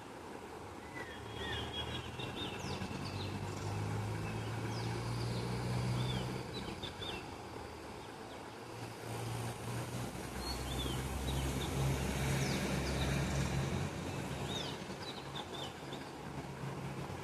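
Small birds chirping in short, quick notes, scattered throughout. Under them a low engine hum swells twice and is the loudest sound.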